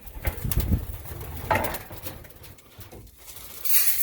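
Racing pigeons cooing in a loft, low and soft, with a short rustling hiss near the end.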